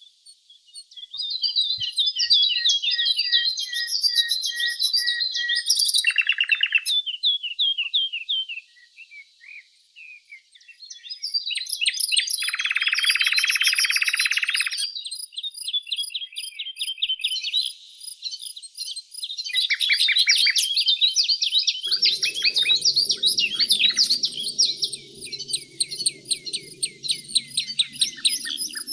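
Songbirds chirping and singing, with several rapid trills overlapping, and a brief lull about a third of the way through. A faint low rumble comes in under the birdsong for the last quarter.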